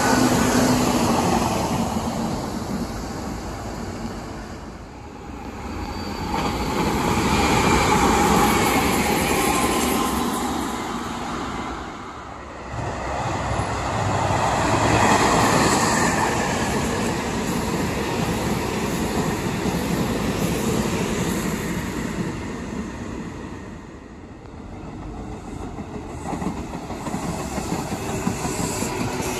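Meitetsu electric commuter trains running past on the line, one pass after another. The sound swells and fades about three times.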